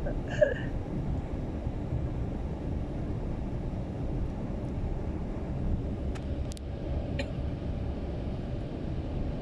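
Steady low rumble of a moving car's road and engine noise inside the cabin, with a few faint clicks about six to seven seconds in.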